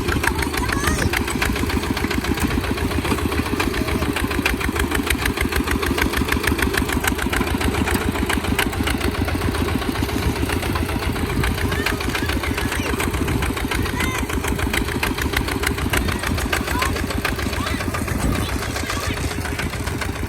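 Small plowing tractor's engine running steadily, a fast, even chugging that does not change.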